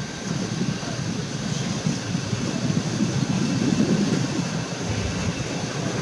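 Passenger train pulling slowly out of the station, heard from an open carriage window: a steady low rumble that grows a little louder as the train gathers speed.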